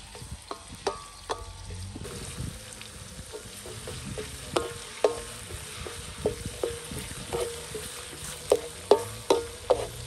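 Food frying and sizzling in hot oil in an aluminium wok while it is stirred. The stirring utensil knocks against the pan in short ringing taps, coming more often in the second half.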